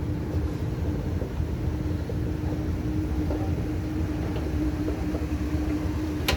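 Train rumbling with a steady electric hum, a sharp click just before the end.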